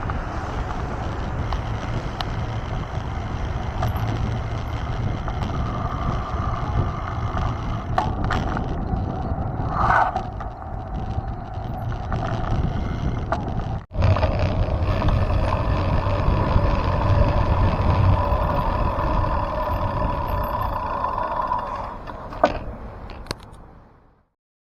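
Steady rolling and wind noise of a mountain bike on the move, recorded on a camera riding with it. It breaks off for a moment about halfway through, then fades out near the end.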